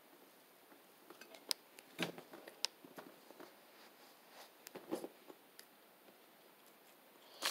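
Faint, scattered mouth clicks and smacks of someone chewing food, with a brief rustle around the middle as a napkin wipes the mouth.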